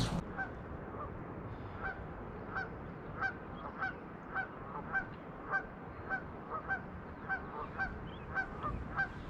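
A bird's short honking calls, repeated about every half second.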